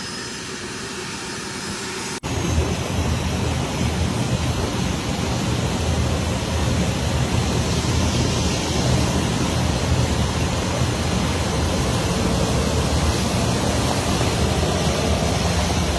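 Private jet's engines running: a steady, loud rush of jet noise with a low drone under it, jumping up sharply about two seconds in.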